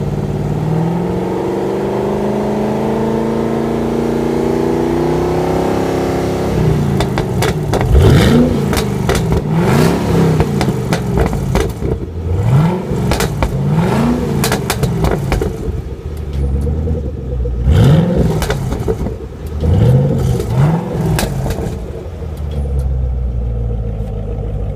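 A 2013 Chevrolet Camaro ZL1's 6.2-litre supercharged V8 idles through its dual-mode exhaust, its pitch slowly rising over the first several seconds. Then it is revved in a series of quick, sharp throttle blips before settling back to idle near the end.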